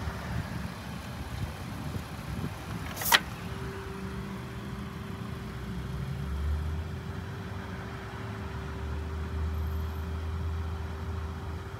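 Car engine idling at low revs, with one sharp click about three seconds in, after which a faint steady tone sounds over the idle.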